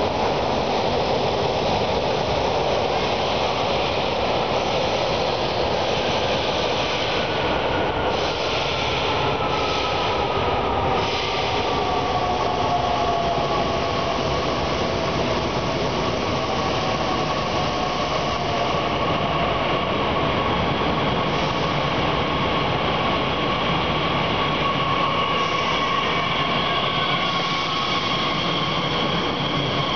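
Electric S-Bahn train running into an underground station and braking, with steady rolling noise and a whine that slowly falls in pitch as it slows, echoing off the station walls.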